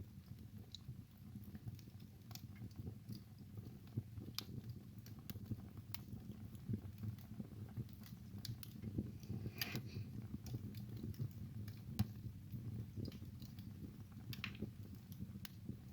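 Wood fire burning in a fireplace: a steady low rumble of the flames with irregular sharp crackles and pops, the sharpest about twelve seconds in.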